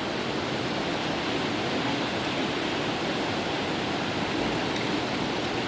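River water rushing steadily in a constant, even stream.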